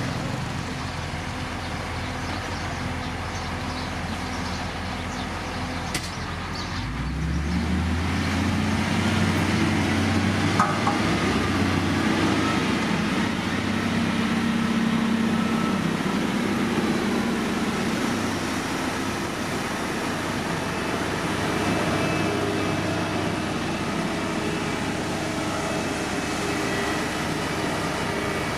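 Diesel engine of heavy road-construction machinery running. About a quarter of the way in the engine revs up, then holds a steady, higher speed for the rest of the time.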